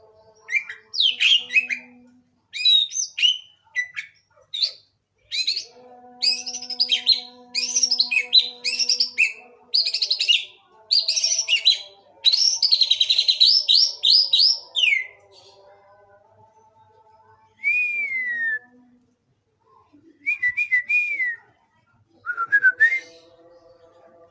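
White-rumped shama (murai batu) singing: fast, varied whistled and chattering phrases for the first fifteen seconds or so, then a few short, separate whistled phrases with pauses between them.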